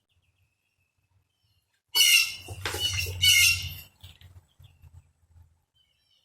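Mockingbird giving loud, harsh squawking calls for about two seconds, starting about two seconds in.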